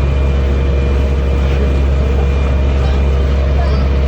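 Amphibious duck boat's engine running steadily while cruising on water: a constant low drone with a thin steady whine above it.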